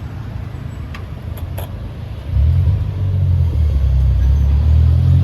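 Low rumble of a passing motor vehicle in street traffic, growing clearly louder a little past two seconds in, with a few faint clicks before that.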